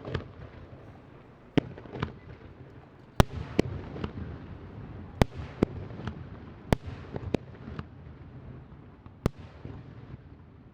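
Aerial fireworks shells bursting: a string of about a dozen sharp bangs at irregular intervals, with a low rumble of echo and crackle between them.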